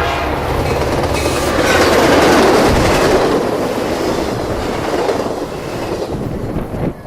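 A train rolling past close by, its wheels on the rails. The sound builds to its loudest about two seconds in, then eases off toward the end.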